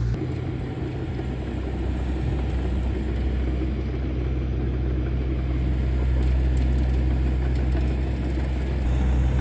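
Heavy diesel engine of earth-moving equipment running steadily with a low rumble, getting a little louder about six seconds in.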